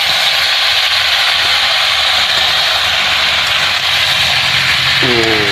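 Chicken sizzling in hot oil in a kadhai as it is stirred, a loud steady hiss, over a steady low hum.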